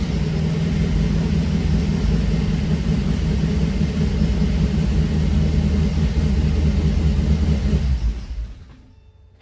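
Porsche 911 (996) flat-six engine running steadily with a deep hum, then dying away about eight seconds in.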